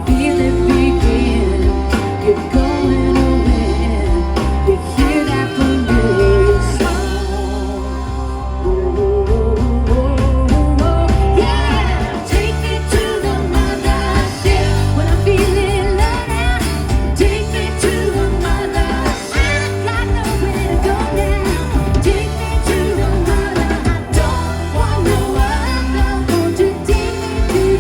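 Live rock band playing an instrumental passage, with a melodic lead line over electric guitar, bass and a steady drum beat; the band eases off briefly about a quarter of the way in, then builds again.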